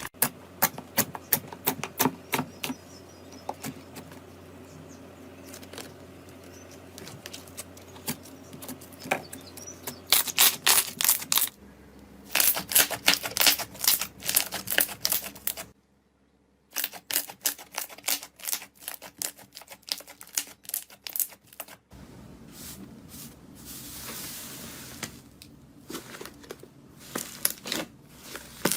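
Rapid, crisp clicks and crackles from a slime or crunchy material being pressed and crushed, in several short clips that change abruptly, with about a second of near silence some sixteen seconds in.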